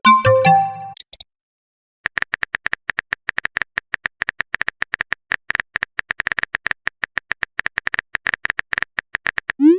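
A short jingle of electronic notes, then about seven seconds of rapid, irregular typing clicks like a keyboard sound effect, ending in a quick rising swoop.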